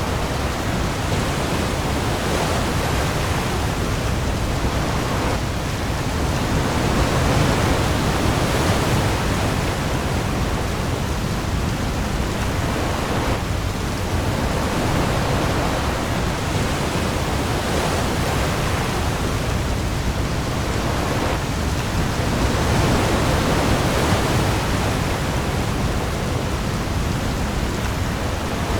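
Heavy rain falling on the sea with waves, a dense, steady hiss with a deep rumble underneath that swells gently every few seconds.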